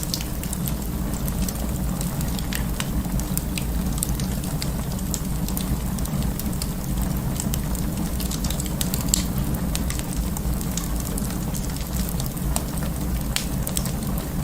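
Wood fire burning in an open fireplace: a steady low rumble of flames with frequent sharp crackles and pops.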